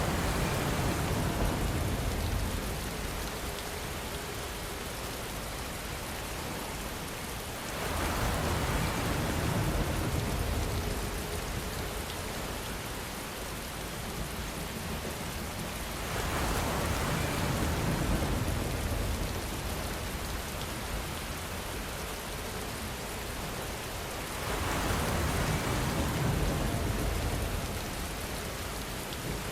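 Steady rainfall, swelling louder about every eight seconds, each swell lasting a few seconds with a deeper rumble underneath.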